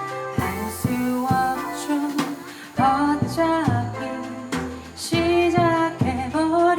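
Live jazz trio of piano, double bass and drums playing, with cymbal and drum strikes among the chords.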